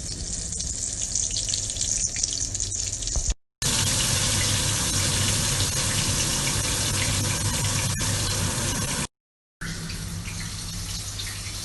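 Flour-coated chicken leg pieces deep-frying in hot oil in a pan: a steady sizzling hiss with small crackles. The sound cuts out twice, briefly, about three and a half and nine seconds in, and is louder in the middle stretch.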